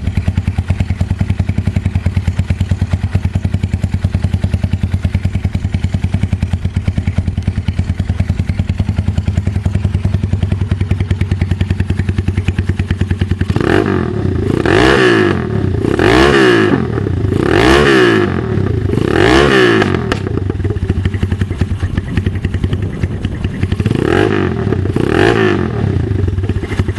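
2012 Cleveland CycleWerks Misfit's 250cc single-cylinder engine idling steadily through its exhaust, then revved in short blips: four in quick succession about halfway through, and two more near the end.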